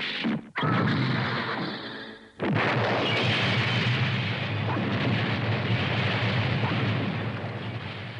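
Anime sound effect of a giant robot exploding: a short burst, then a loud blast, a brief break about two seconds in, and a long rolling roar that slowly fades toward the end.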